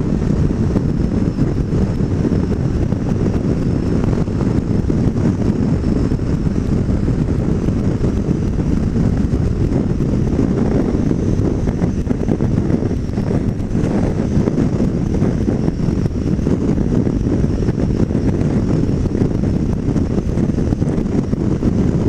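Steady wind rush buffeting the microphone at freeway speed over the running drone of a 2009 Yamaha Majesty 400 maxi-scooter's 395cc single-cylinder four-stroke engine and its road noise.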